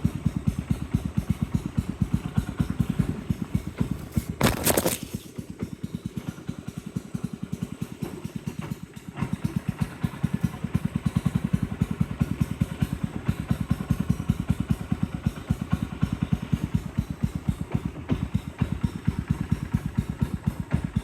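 A small boat's motor running with a rapid, even beat of firing pulses. A brief loud rush of noise comes about four and a half seconds in. The motor runs quieter for a few seconds after that and comes back up around ten seconds in.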